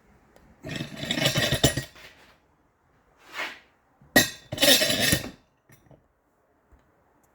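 Metal hand tools clinking and rattling in a few short irregular bursts, with a sharp click about four seconds in.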